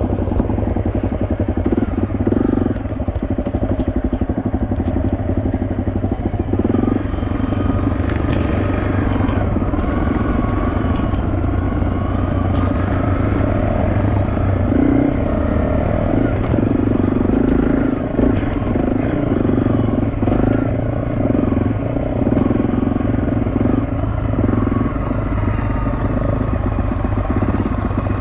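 Off-road motorcycle engine running, heard from the rider's helmet, the throttle opening and easing every few seconds as the bike rides a rough dirt trail.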